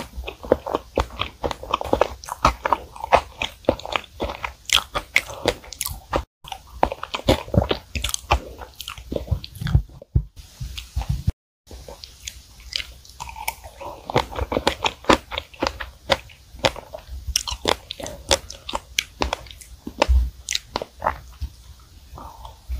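Close-miked chewing of strawberry chocolate cream cake: a dense run of mouth clicks and smacks, broken by three brief silent gaps.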